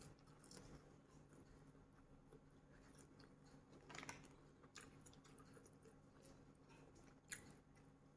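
Faint chewing and mouth sounds of someone eating, with a few soft clicks, the clearest about four and seven seconds in.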